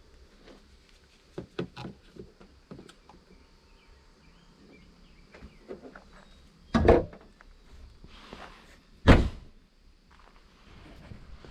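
Light knocks, then two loud thuds about two and a half seconds apart, typical of a car hood being shut on the hood-loop tie-down straps so that they are clamped at the front of the car.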